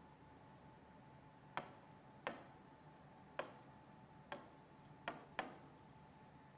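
Six sharp clicks at uneven intervals, two of them close together near the end, over a faint steady hum.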